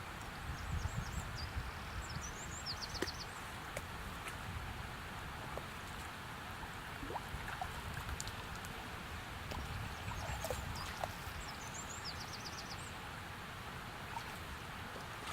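A songbird sings the same short phrase twice, about ten seconds apart: a few quick notes ending in a fast run of high notes. Under it is a steady rushing noise, with wind buffeting the microphone.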